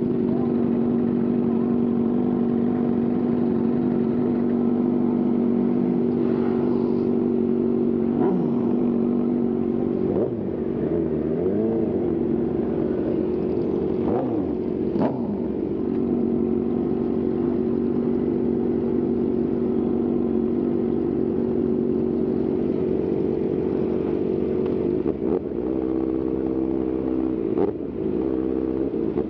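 Sport motorcycle engine running at a steady high note under the rider, with the revs sliding up and down for several seconds partway through, and the engine pulling up in pitch near the end.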